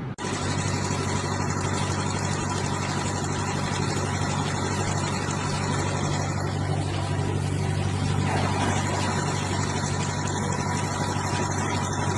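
Engine running steadily at a constant speed, a low even hum with a thin steady whine above it.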